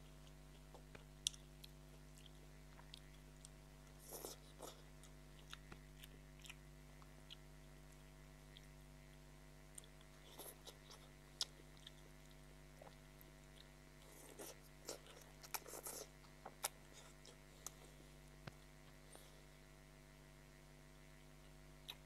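Close-miked chewing and wet mouth sounds of eating chow mein noodles, with scattered soft clicks and smacks over a faint steady hum.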